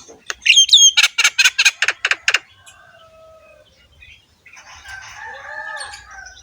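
Javan myna (jalak kebo) singing in a rough, harsh voice: a quick run of loud rasping notes with a whistled note among them, then after a short pause a quieter, lower warbling phrase.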